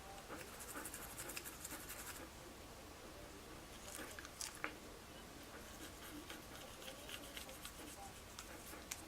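A toothbrush's bristles scrubbing in a dog's mouth, in quick faint scratchy strokes. There is a run of strokes at the start, a few sharper clicks in the middle, and a longer run in the second half.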